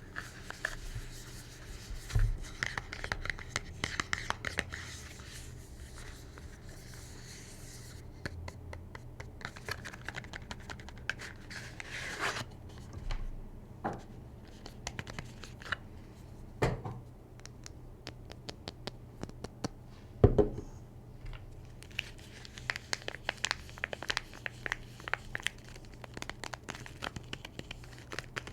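Soap packaging being unwrapped by hand: the wrapper is torn and crinkled in many small rustles and crackles. A few sharp knocks break in, the loudest about twenty seconds in.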